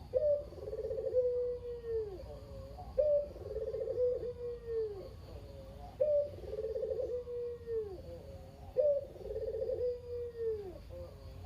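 Male Barbary dove (local turtle dove) cooing repeatedly, about four phrases, one every three seconds. Each phrase opens with a short higher note, rolls into a trilled middle and ends on a long, falling coo.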